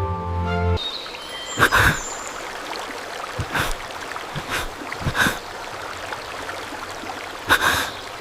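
Background music breaks off about a second in. A steady sound of flowing stream water follows, with a few short knocks scattered through it.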